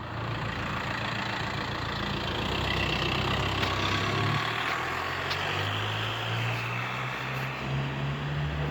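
A motor vehicle's engine idling, a steady low hum that shifts slightly in pitch a few times.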